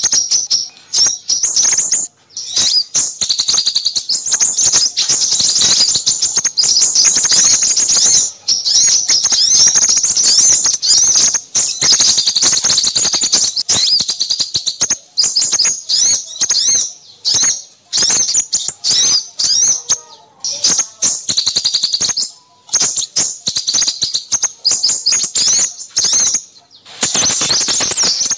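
Small birds chirping and twittering in a fast, high-pitched, almost unbroken chatter with only brief pauses: a noisy small-bird lure call used to draw in crimson sunbirds.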